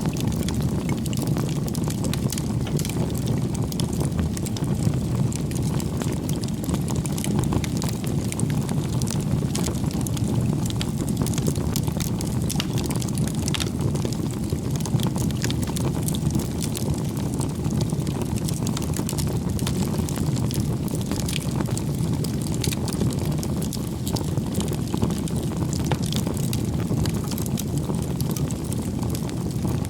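Firewood bonfire burning: a steady low rumble of the flames with frequent sharp crackles and pops from the burning wood.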